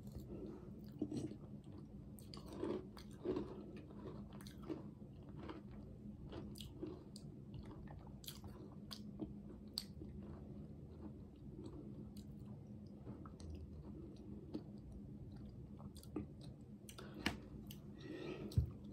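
Faint chewing and mouth sounds of a person eating a spoonful of cookies-and-cream pudding dessert with crushed cookie pieces in it. Small scattered clicks throughout, a few louder ones about three seconds in and near the end.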